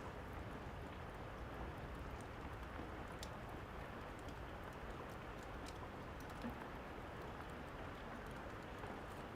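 Steady rain hiss with scattered pops and crackles of a fireplace fire.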